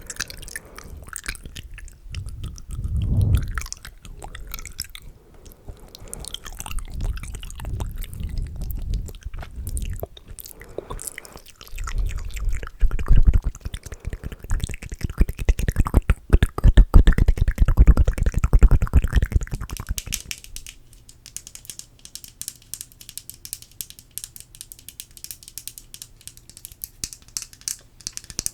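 Close-miked ASMR mouth sounds: fast, wet clicks and smacks that sound like chewing, dense and loud through the middle. About two-thirds of the way through they thin out to sparse, quieter ticks.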